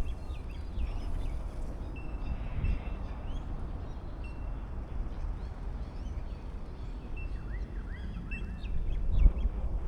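Several small birds chirping and twittering in short calls, over a steady low rumble, with a thump about nine seconds in.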